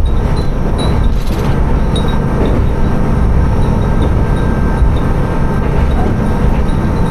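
Tsugaru Railway diesel railcar running along the line, a steady loud rumble of engine and wheels on rail. Brief high ringing specks scattered through it fit the tinkling of the glass wind chimes hung in the car.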